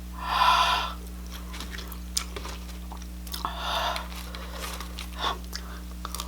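A person chewing food close to the microphone, with small wet mouth clicks and two short breathy rushes of air, about half a second in and again about three and a half seconds in.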